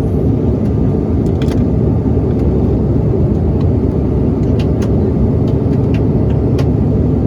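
Steady, loud jet airliner cabin noise: engine and airflow rumble heard from inside the cabin, with a few faint clicks and rattles.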